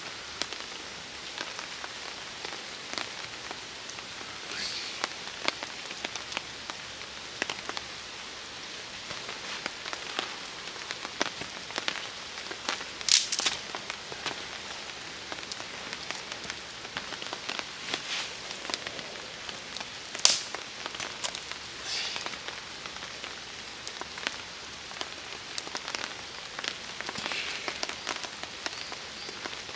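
Steady rain pattering on a tarp, with many small sharp drip clicks. Two much louder sharp cracks stand out, one a little before halfway and one about two-thirds of the way in.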